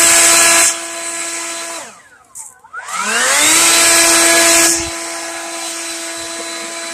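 Leaf blower spinning up with a rising whine and blowing at full power, winding down about two seconds in, then spinning up again. The rush of air drops back about five seconds in, and the blower runs on steadily at that quieter level.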